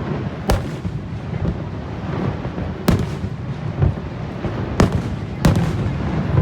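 Fireworks shells bursting: four sharp separate bangs spread over several seconds, over a steady low rumble.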